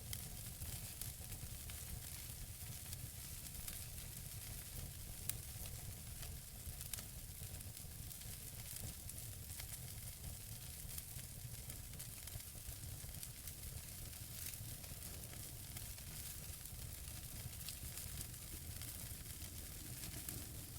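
Wood fire burning in a fireplace: a steady soft hiss with scattered small crackles and pops from the burning logs, one pop a little louder about five seconds in.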